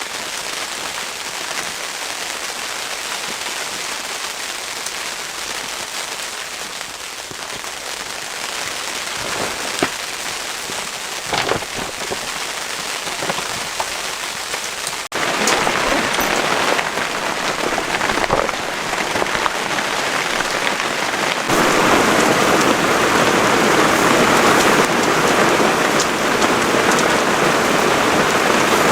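Blizzard: a steady hiss and patter of wind-driven snow striking a surface. It jumps louder about 15 seconds in and again about 21 seconds in.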